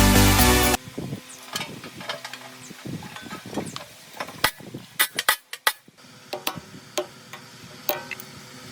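Electronic background music cuts off about a second in. Then come scattered clicks and metallic knocks of hand tools on the parts of a rusty drill press, with a brief pause about two-thirds of the way through.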